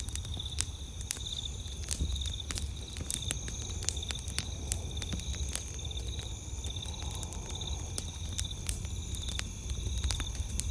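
Wood fire crackling with frequent sharp pops and snaps, over a night chorus of crickets chirping in a steady pulse, about two chirps a second, and a constant high insect trill.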